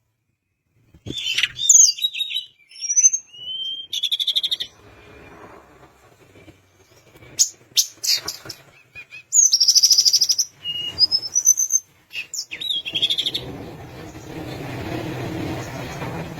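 A tledekan gunung songbird singing: bursts of varied high whistles and quick rising and falling glides, broken by short pauses. A steady low rushing noise sits under the last few seconds.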